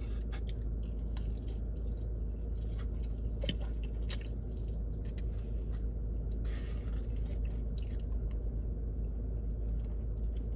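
A person chewing food close to the microphone, with scattered wet mouth clicks and smacks and a short hiss about six and a half seconds in, over a steady low hum.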